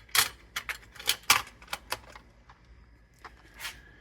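Small hard plastic items being handled: a run of irregular sharp clicks and clacks, about a dozen in a few seconds.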